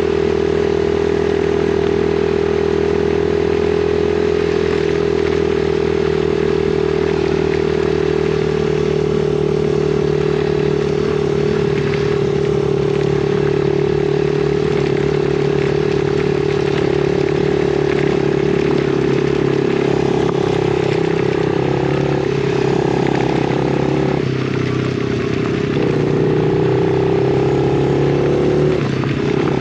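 Yamaha TT-R50E pit bike's small four-stroke single-cylinder engine running at steady, high revs while being ridden. About 24 seconds in the revs drop for a moment, then pick back up.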